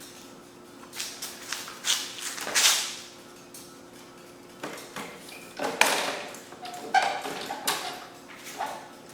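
A string of knocks, clicks and scrapes from working on a push lawnmower's loose handle and its fastenings, over a faint steady hum.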